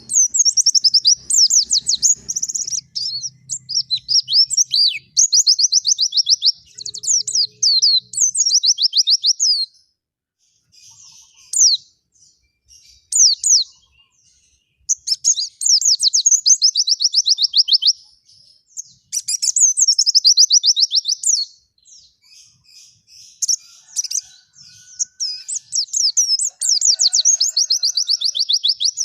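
Small songbird singing long, rapid, high-pitched trilling phrases, with a sparser stretch of scattered notes about a third of the way through before the trills resume.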